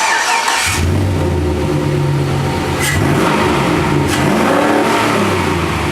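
A 2003 Chevy 4.8 LS V8 (iron block, aluminium heads) cranks briefly on the starter and catches under a second in. It then runs cold with its revs rising and falling a couple of times, through what sounds like a nice aftermarket exhaust.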